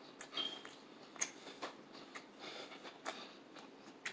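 Close-miked eating of crunchy fried chicken: scattered soft chewing clicks and mouth smacks, with one sharper crunch about a second in.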